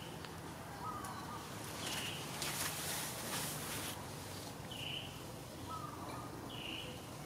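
Forest ambience: a bird repeating a short high chirp about every two seconds, with a burst of hiss in the middle and a steady low hum underneath.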